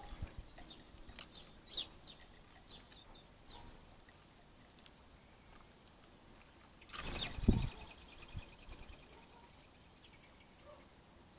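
Small birds at a garden seed feeder: several short, high, downward-sliding chirps in the first few seconds. About seven seconds in, a sudden rapid rattling flutter with a low thump lasts about a second and a half, as a bird flies in to the feeder.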